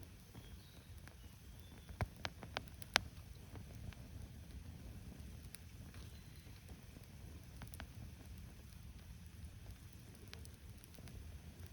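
Wood campfire crackling, with a cluster of four sharp pops about two to three seconds in and a few single pops later. Faint bird chirps can be heard now and then.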